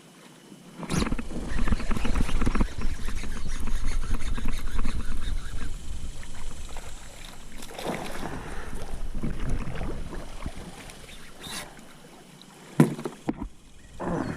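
Water splashing and knocking around a kayak as a bass is fought and brought aboard, over a heavy low rumble on the camera's microphone. It starts about a second in and eases off after about ten seconds, with one sharp knock near the end.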